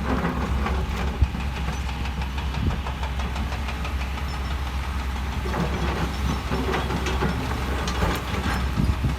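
Heavy construction machinery's diesel engine running steadily with a deep rumble, with scattered short knocks and clatter over it, a few more of them in the second half.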